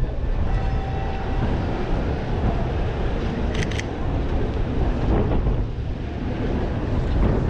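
Steady low rumble of street traffic, with a couple of sharp clicks about three and a half seconds in.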